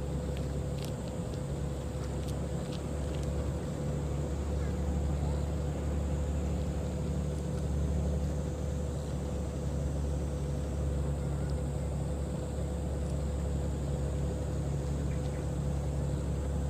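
A boat's diesel engine running steadily, a low, even rumble with a steady hum over it.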